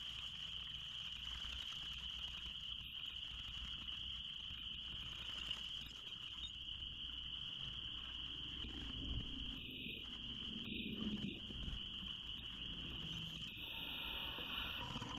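Crickets chirping in a steady, high-pitched chorus, with a low rumble from about eight to twelve seconds in.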